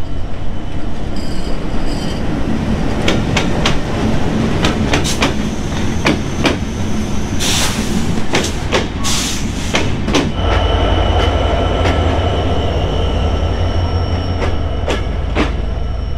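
Diesel-hauled passenger train rolling past along the platform: a steady low rumble with wheels clicking over rail joints, and a few loud hissing bursts about halfway through. From a little past halfway, a stronger low steady diesel locomotive hum comes in.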